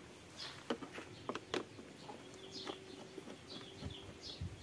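Faint, scattered short high bird chirps, several over a few seconds, with a few light sharp clicks in the first two seconds.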